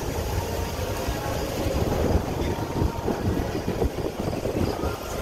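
Strong wind buffeting the microphone: a low, gusting noise that rises and falls unevenly.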